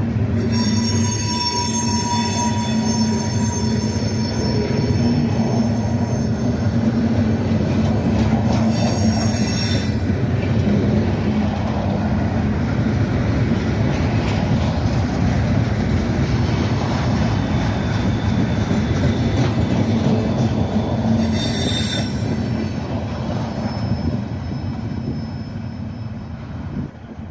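Freight train cars rolling past with a steady rumble, their wheels squealing in high tones near the start, again about nine seconds in and about twenty-one seconds in. The rumble fades near the end.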